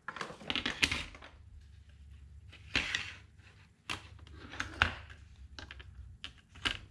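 Plastic parts of a car instrument cluster being unclipped and pulled from the housing: irregular clicks and rattles of hard plastic in several short bursts, the loudest about a second in and around the five-second mark.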